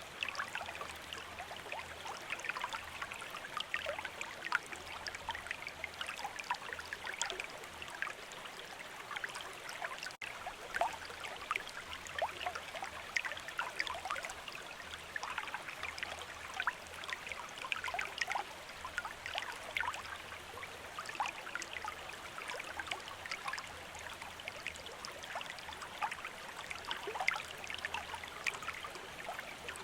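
Shallow stream running steadily over stones, with a constant rush and many small bright splashes and trickles.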